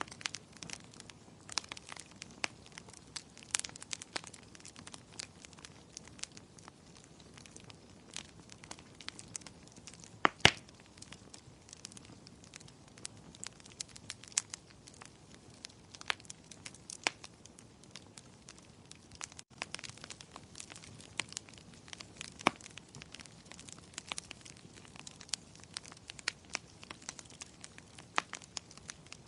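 Wood fire crackling in a fireplace: a steady stream of irregular sharp pops and snaps over a faint hiss, with one louder pop about ten seconds in.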